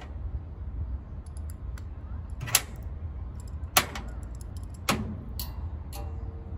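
Metal hand tools and sockets clinking: a few sharp metallic clicks, three louder ones about a second apart, over a steady low rumble, with a faint ring near the end.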